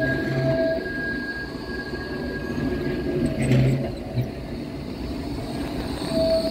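Tram moving past at low speed, with a steady electric whine and low hum over the rumble of its wheels. A brief louder burst comes about three and a half seconds in.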